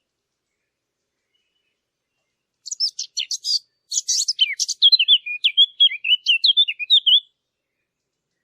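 A bird singing a quick run of high chirps and twittering notes, starting about a third of the way in and stopping a second before the end.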